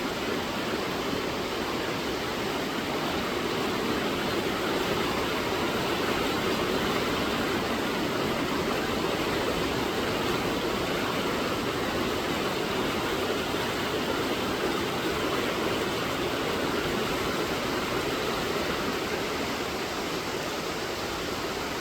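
River water flowing, a steady, even rush without breaks.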